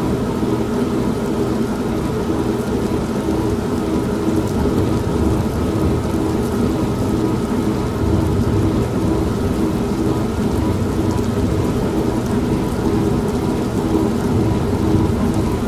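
Old washing machine running with a steady motor hum, mixed with steady rain and a low, continuous rumble of thunder.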